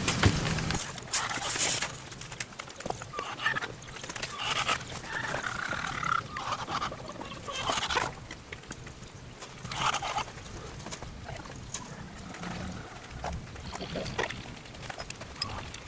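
Hens clucking, with scattered short calls and small scratching clicks.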